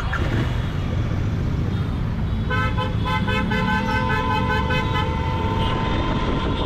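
Royal Enfield Continental GT 650 parallel-twin running under steady riding noise. About two and a half seconds in, a vehicle horn honks in a rapid stutter of short blasts for a couple of seconds, then holds one steadier tone.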